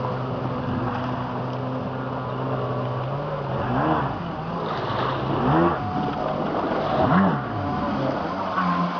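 Jet ski engine running steadily, then revving up and dropping back three times, about a second and a half apart.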